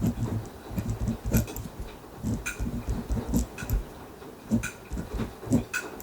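Ballpoint pen writing on paper in a notebook: a busy run of soft scratching and tapping strokes, with a few sharp clicks of the pen against the page and desk.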